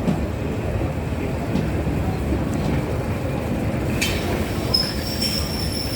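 Passenger train rolling slowly into a station with a steady low rumble, a sharp clunk about four seconds in, then a high steady brake squeal as it slows to a stop.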